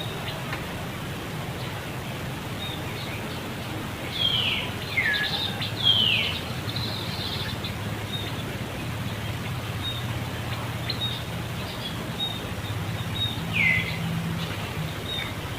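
Short high-pitched animal calls, each sliding sharply down in pitch: three in quick succession a few seconds in, then one more near the end, over steady outdoor background noise with a low hum.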